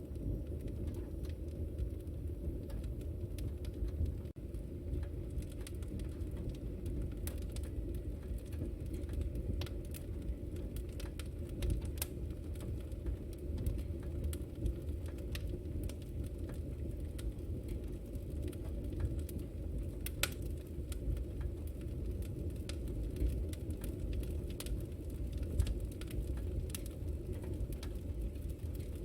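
Wood fire crackling: a steady low rumble with scattered sharp pops and snaps, one of them louder about two-thirds of the way through.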